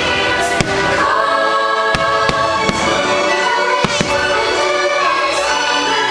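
Fireworks bursting about seven times over loud orchestral show music with a choir singing.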